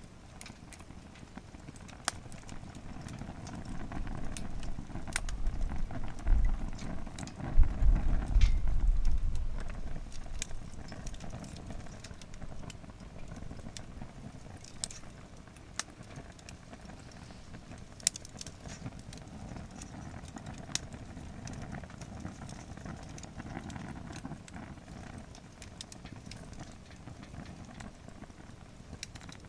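Firewood burning in a campfire pit, crackling with scattered sharp pops. A low rumble swells between about four and ten seconds in.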